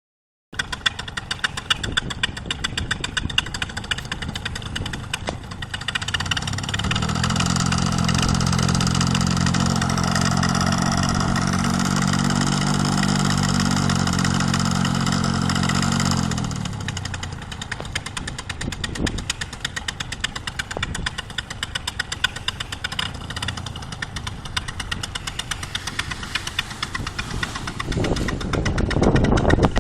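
Paramotor's small two-stroke engine ticking over at idle, opened up to a steady high power setting for about ten seconds, then throttled back to idle. Near the end a louder rushing noise builds.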